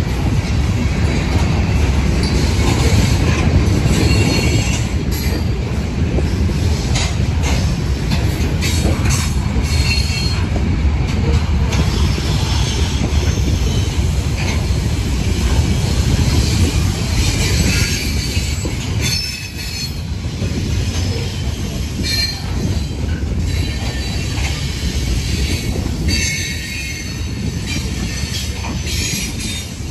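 Freight train of covered hopper cars rolling past, steel wheels rumbling and clattering over the rail joints, with high wheel squeal coming and going.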